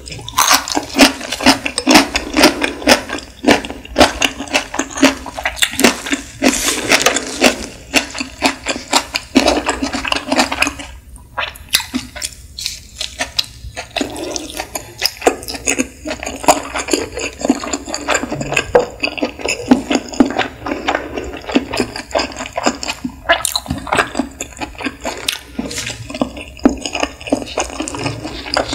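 Nigiri sushi being chewed close to the microphone: a dense run of irregular mouth clicks and smacks from raw fish and rice. There is a short pause a little before the middle.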